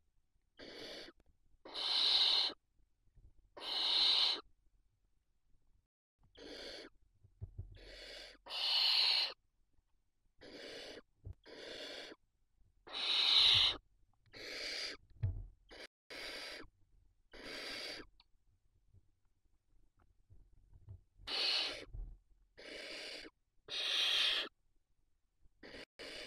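Barn owl chicks giving their food-begging hisses, the 'snoring' call: a long run of breathy hisses without a clear pitch, each under a second long and coming about once a second. Some are much louder than others, and there is a pause of a few seconds about two-thirds of the way through.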